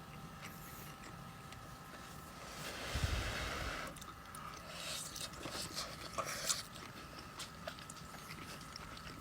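Quiet eating of spaghetti and meatballs: faint chewing with scattered small clicks, and a breathy rush of noise lasting about a second, about three seconds in, over a faint steady hum.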